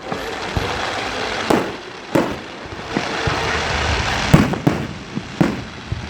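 Fireworks going off: a string of sharp bangs at uneven intervals over a continuous crackling hiss, the loudest bang about two-thirds of the way through.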